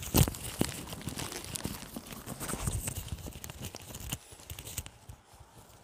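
A person biting into a fried chicken sandwich and chewing it close to the microphone: one loud bite just after the start, then irregular chewing clicks that thin out after about four seconds.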